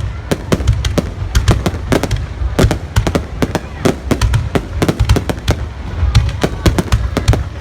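Fireworks exploding in rapid, irregular succession: many sharp bangs a second over a continuous low rumble.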